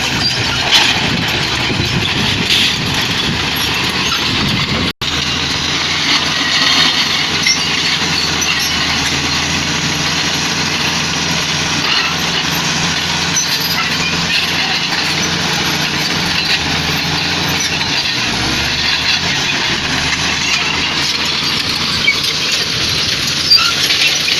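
Diesel engines of heavy earthmoving machines, a bulldozer and an excavator, running steadily at work. The sound cuts out for an instant about five seconds in.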